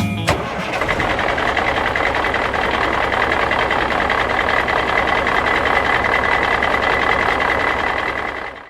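Truck engine running steadily, with a steady high whine over it. It follows the last note of guitar music, which ends about a quarter second in, and fades out at the end.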